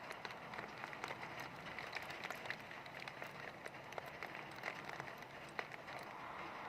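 Heavy rain falling: a steady hiss thick with many close, sharp drop impacts.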